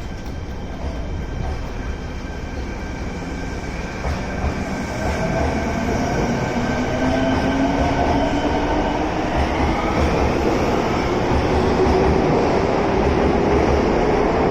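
Electric train accelerating from a stop: its traction motors give a whine that climbs steadily in pitch while the running noise of the wheels grows louder.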